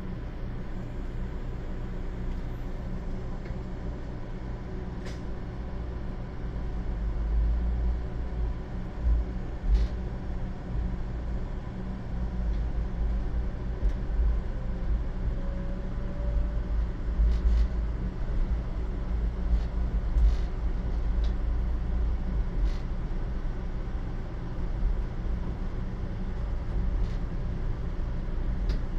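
Steady low rumble of a 500 series Shinkansen heard inside a passenger car, swelling a little after the first few seconds. Occasional sharp clicks sound over it.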